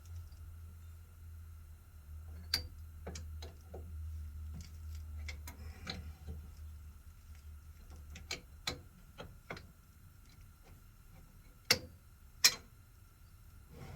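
Shop machine tool running with a low hum and a faint steady whine, with scattered light clicks and knocks throughout. The hum fades about two-thirds of the way through, and two sharper clacks come near the end.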